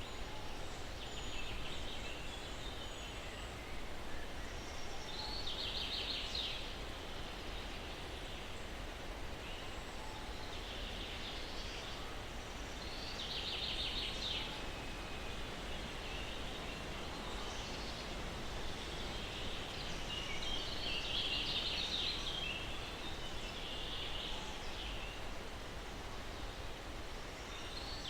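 Steady breeze through pine trees, with songbirds singing short trilled phrases every few seconds.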